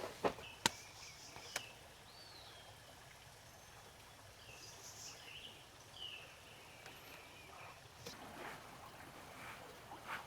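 A few footsteps in the first second or so, then faint bird chirps over a soft steady creek hiss, with a few more soft steps or rustles near the end.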